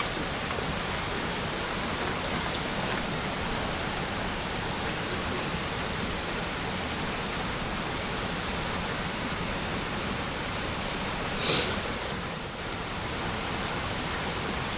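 Steady, even outdoor hiss, like rain or running water, with one brief louder rush about eleven and a half seconds in.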